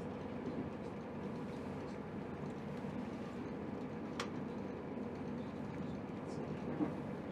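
Steady running rumble of a passenger train, heard from inside the carriage, with a single sharp click about four seconds in.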